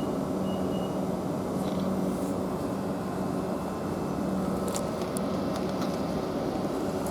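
Class 458 electric multiple unit pulling away from the station: a steady electric hum with rolling noise, and a few light clicks about five seconds in.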